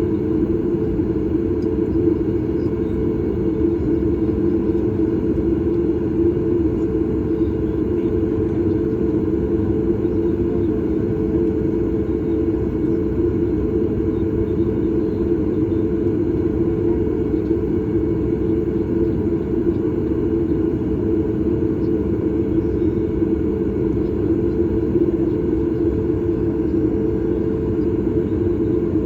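Steady cabin noise inside a Boeing 737 MAX 8 airliner: an even rumble of engines and airflow that holds level throughout.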